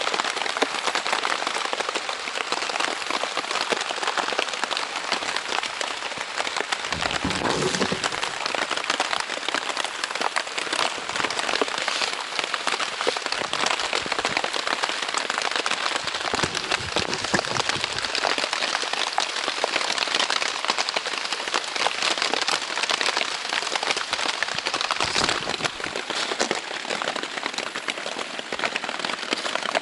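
Heavy rain falling on a Zpacks Plexamid tent's Dyneema fabric: a dense, steady patter of countless drops, with a few fuller, deeper spells.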